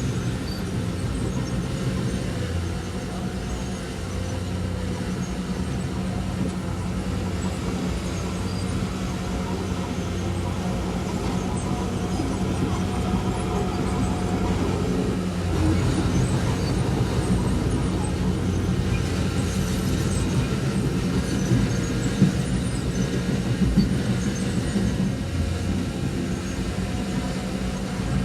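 Heavy diesel earthmoving machinery running steadily under work, its engine note continuous, with a few sharp knocks and rattles in the second half.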